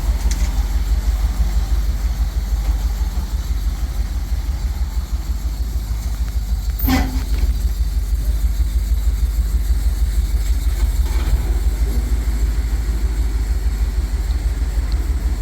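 Steady low engine and road rumble of a 26-foot gasoline moving truck, heard inside its cab, with one sharp click about seven seconds in.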